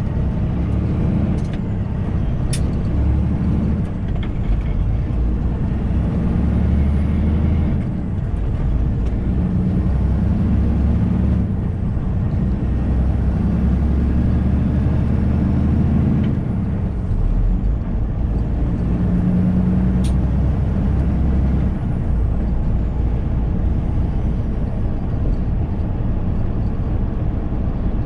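Semi truck engine heard from inside the cab while driving. The engine drone steps down and builds again several times as the truck works through its gears, and a faint high whistle rises and falls along with it.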